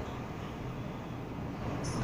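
Steady low rumble of car engine and tyre noise heard from inside a moving car's cabin.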